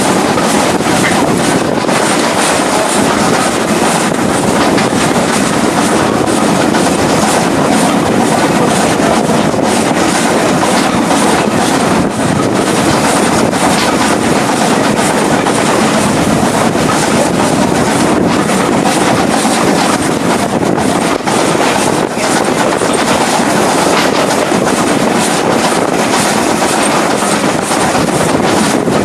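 Steam-hauled passenger train running along the line. There is a loud, steady rush of running noise, with scattered clicks from the wheels over the rail joints.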